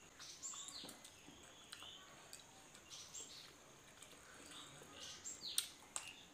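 Faint, scattered chirps of small birds, short high notes that fall in pitch, with a few sharp soft clicks from eating, the loudest a little after five seconds in.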